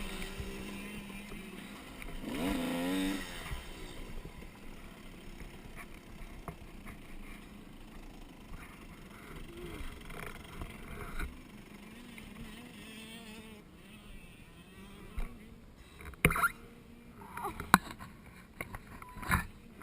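Dirt bike engine revving on a motocross track, rising and then falling in pitch about two seconds in, followed by fainter engine noise. A few sharp knocks come near the end.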